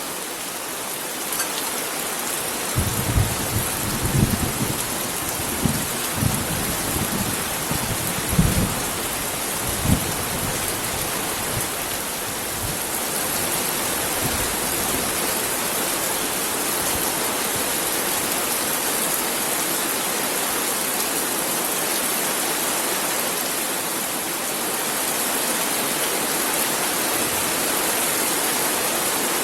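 Heavy rain falling steadily, with a run of short, deep thuds between about three and ten seconds in.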